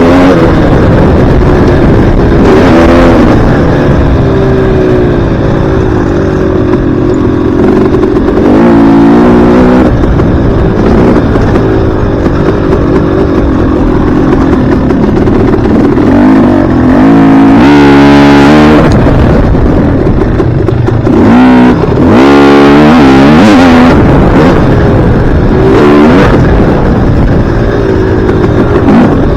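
Dirt bike engine being ridden, revving up and down with the throttle and gear changes, with quick sharp revs about eighteen and twenty-two seconds in. Loud throughout.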